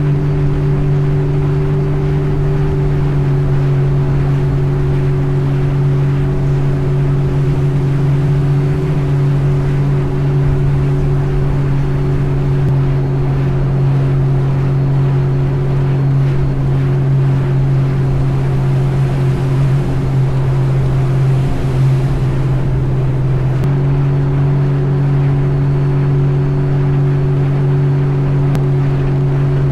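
An engine running at a steady speed, a constant low drone that shifts slightly in pitch about three-quarters of the way through.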